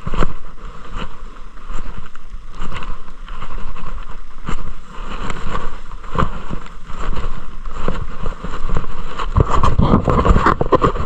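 Wind noise rumbling on the microphone, with repeated scuffs, scrapes and knocks of someone climbing up over loose ground.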